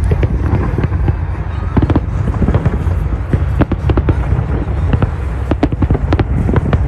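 Fireworks going off in quick succession: many sharp bangs and crackles over a steady low rumble.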